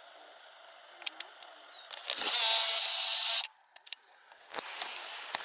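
Camera zoom motor whirring for about a second, starting and stopping abruptly, with a few light handling clicks before it.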